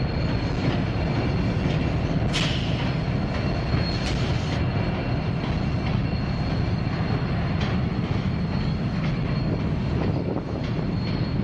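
Diesel-hauled freight train of covered hopper cars rolling over a steel truss railroad bridge: a steady low rumble with a thin, steady high-pitched squeal over it. Brief sharper screeches come about two and a half and four seconds in.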